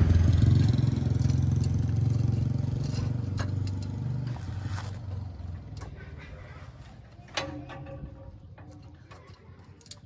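A motor vehicle's engine running steadily with a low hum, growing gradually fainter, with a few sharp clicks along the way.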